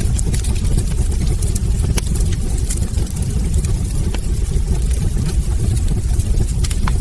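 Wood fire burning in a fireplace: a steady low rumble of flames with sharp crackles and pops scattered irregularly through it.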